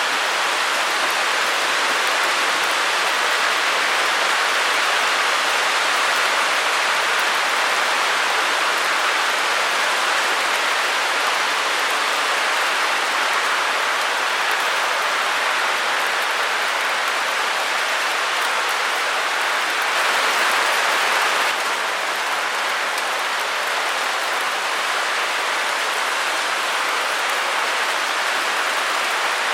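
Steady white-noise hiss, an even rushing noise weighted toward the middle and upper range, with little low rumble; it drops slightly in level about twenty seconds in.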